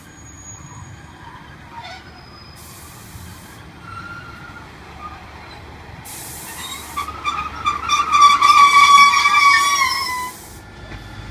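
Class 150 Sprinter diesel multiple unit rumbling into a station platform, its brakes squealing with a loud, high ringing tone for about three seconds as it slows to a stop, with short hisses of air.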